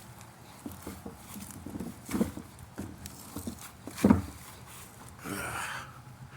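A few dull knocks and thumps, the loudest about four seconds in, followed by a short scrape near the end.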